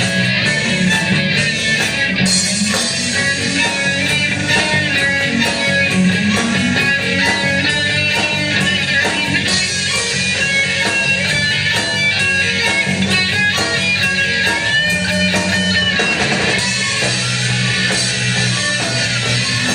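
A band playing guitar-led rock music, with strummed guitar over a steady bass line.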